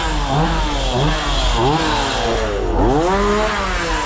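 Two-stroke chainsaw engine being revved over and over in quick blips, its pitch rising and falling several times.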